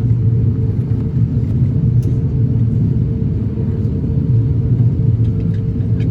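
Steady low rumble with a constant hum inside the cabin of an Airbus A350-1000 on the ground after landing. A few faint clicks come near the end.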